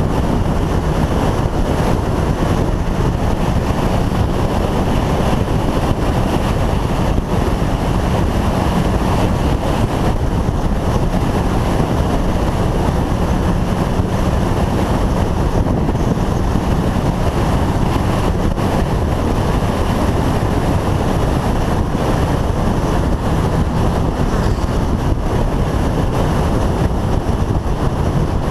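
Motorcycle cruising at a steady speed, its engine a low steady hum, nearly buried under heavy wind rushing over the microphone.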